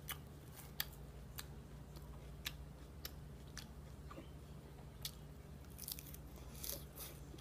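Quiet, close-up chewing and crunching of a mouthful of salad, with short sharp crunches every half-second to second.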